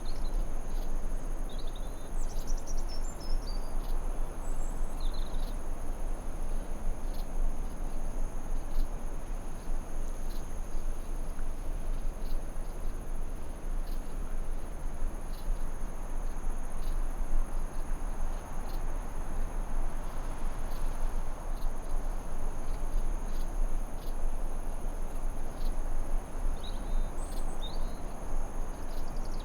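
Forest ambience: a steady high insect trill, held continuously at two pitches, over an even noise bed, with short bird chirps in the first few seconds and again near the end.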